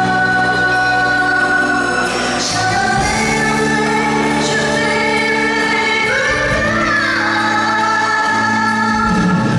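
Live band playing a Mandarin pop song, with singing and long held notes.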